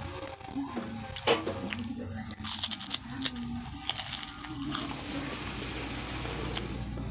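Crunching and chewing of a crisp krupuk (fried cracker) bitten and eaten by hand, a run of sharp crackly crunches, densest two to three seconds in. A low steady hum comes up under it about five seconds in.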